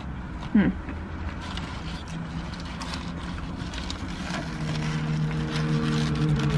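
Chewing and the crinkle of a burger's paper wrapper, with small clicks throughout, after a short voice sound just under a second in. About four and a half seconds in, a steady low engine hum comes up and grows louder.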